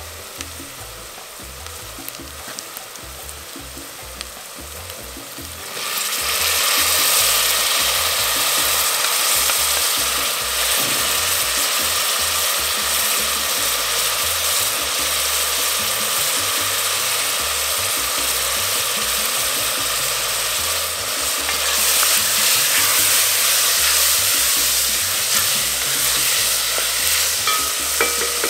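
Chopped onion, peppers and corn sizzling in oil in a cast-iron pot. The sizzle jumps much louder about six seconds in, as the corn kernels go in. Near the end a wooden spoon stirs the pot, with a few sharp clinks.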